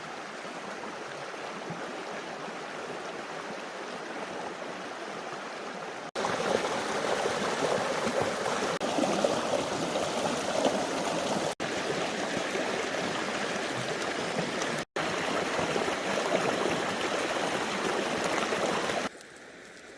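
Creek water running over small rapids, a steady rushing. It steps louder about six seconds in, breaks off briefly twice, and drops back quieter near the end.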